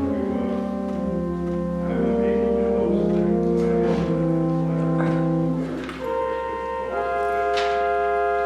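Organ playing slow held chords that change about once a second over a steady sustained bass note.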